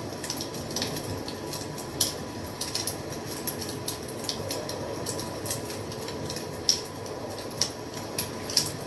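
Wood fire crackling: irregular sharp pops and snaps over a steady rushing hiss of the burning fire, with louder pops about two seconds in and near the seven-second mark.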